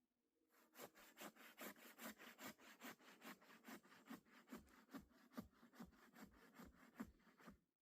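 Hand saw cutting through firewood in quick, even back-and-forth strokes, about four a second, stopping abruptly near the end.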